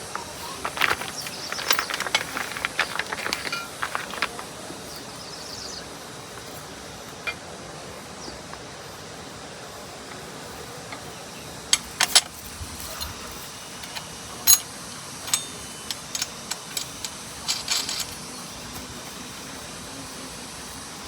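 Scattered clinks and knocks of metal tools and parts being handled during a tiller repair, in clusters, over a steady hiss.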